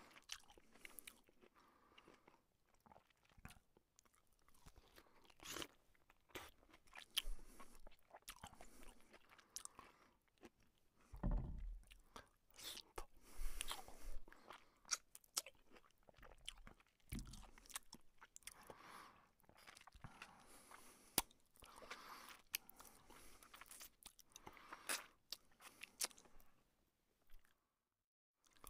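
Close-up chewing and biting of luchi, a puffed fried flatbread, with fried egg: wet mouth clicks and crisp crunches, with the bread being torn by hand.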